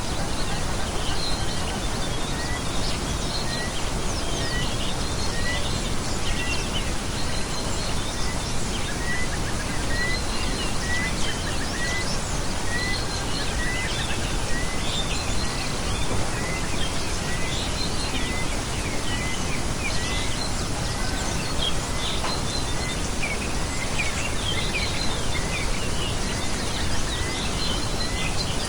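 Small birds chirping over a steady loud hiss, one bird repeating a short rising note about once a second.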